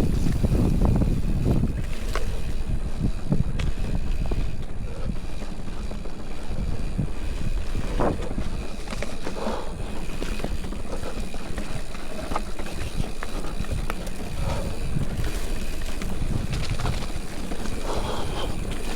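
Mountain bike riding over rough trail: steady low rumble of wind on the microphone and tyres, with scattered sharp clicks and rattles from the bike.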